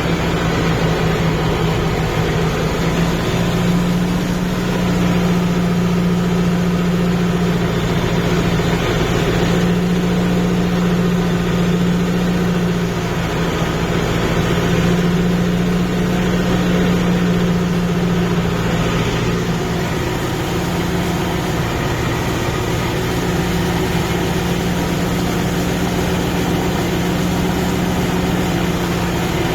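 Kubota MU5502 tractor's four-cylinder diesel engine running steadily, close up, as the tractor works a muddy paddy field.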